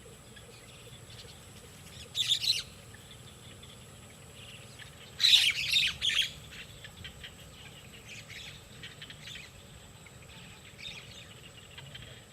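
Wild birds at a nest giving harsh, high squawking calls in two loud bursts, a short one about two seconds in and a longer one about five seconds in, with fainter calls scattered after.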